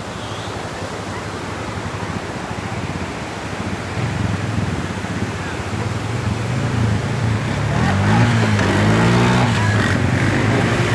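Steady rush of a waterfall, joined about four seconds in by a motor vehicle's engine that grows louder, its pitch rising and falling near the end.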